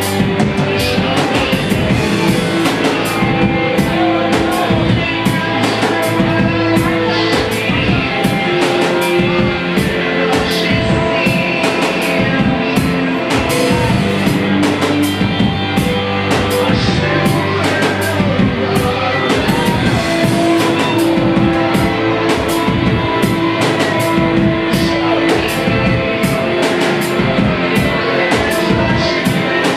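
Live rock band playing: electric guitar and drum kit with a steady beat.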